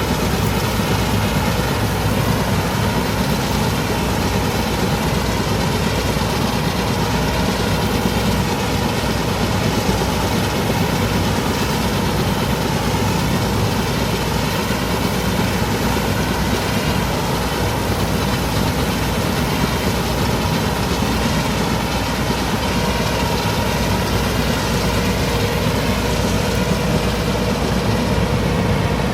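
Massey Ferguson 385 tractor's diesel engine running steadily, driving a wheat straw chopper through its PTO.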